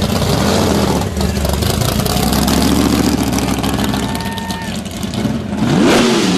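Loud open-header car engine running with a steady low rumble, then a quick rev that rises and falls in pitch near the end.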